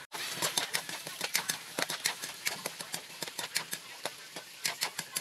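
Potatoes, carrots and red bell pepper frying in oil in a metal wok, crackling with many irregular sharp pops over a light sizzle.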